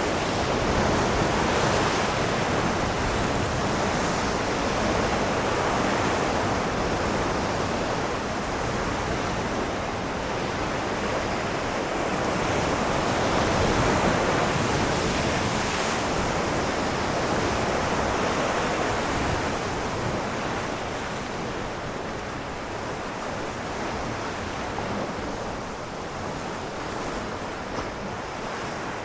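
Ocean waves washing and breaking on rocks in a continuous surf roar, swelling and easing slowly and dying down a little near the end.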